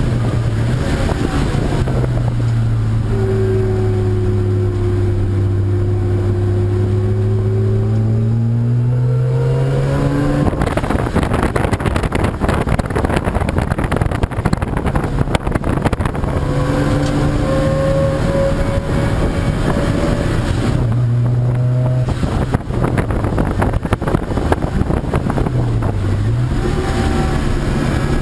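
Racing car engines running hard on a circuit as cars go past. The engine notes fall in pitch and climb again over several seconds, with a stretch of dense, overlapping engine noise in between and a quick dip and rise near the end.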